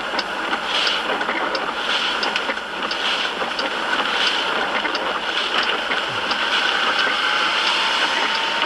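Steady road and wind noise of a moving car, with faint regular ticks throughout.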